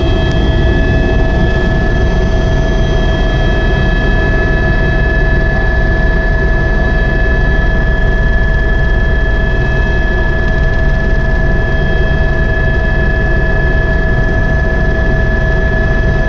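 Helicopter in flight: a loud, steady rumble of engine and rotor with a constant high whine over it.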